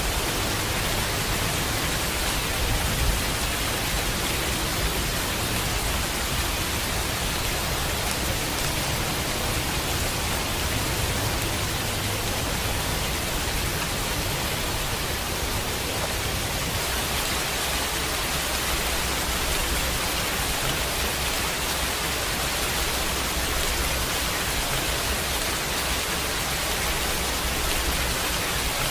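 Steady heavy rainfall, an even hiss of drops, with a low rumble underneath that swells and eases.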